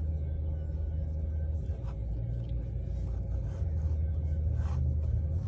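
Steady low rumble heard inside a parked car's cabin, with a faint constant hum. Light scratchy pencil strokes on a sketchbook, the clearest near the end.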